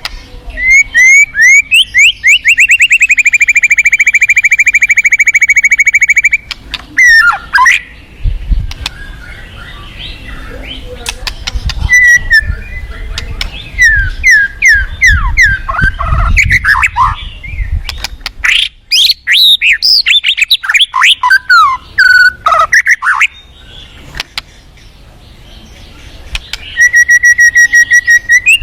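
White-rumped shama singing a varied song: a long, very rapid trill of repeated notes lasting about five seconds, then rising and falling slurred whistles, and another rapid trill near the end. Underneath runs a low rush of fast-flowing river water.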